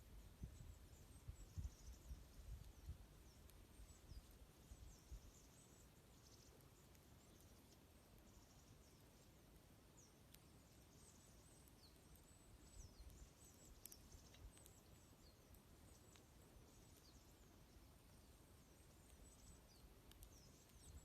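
A flock of small songbirds calling quietly, with many short, thin, high-pitched chirps, several falling in pitch, scattered all through. A few faint snaps from a campfire and a low rumble sit underneath.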